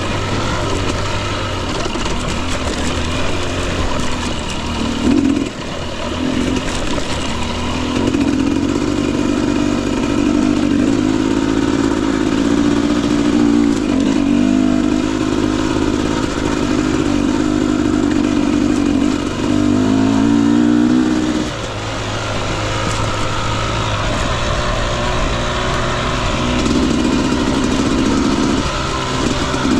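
Husqvarna TE250i two-stroke dirt bike engine running under way, the revs rising and falling with the throttle, with a quick climb in revs about twenty seconds in.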